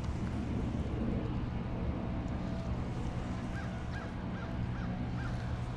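A bird calls five times in quick succession, starting about halfway through, over a steady low hum.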